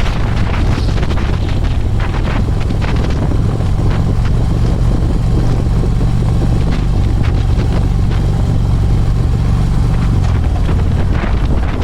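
Harley-Davidson Electra Glide's V-twin engine running steadily while riding, with wind buffeting the camera's microphone.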